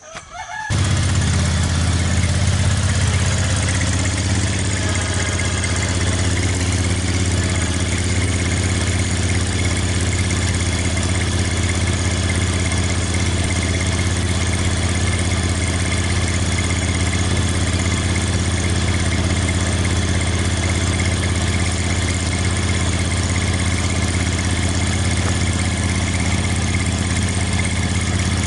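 BadBoy Rogue 72-inch zero-turn mower's 38.5-horsepower V-twin engine starting and catching within the first second, then running at a steady speed.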